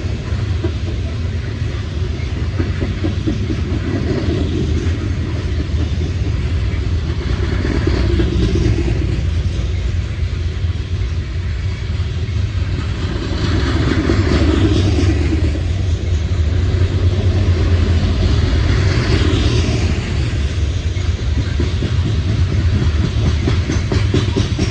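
A CSX coal train's freight cars rolling past on the rails: a continuous rumble of steel wheels on track that swells and eases every few seconds.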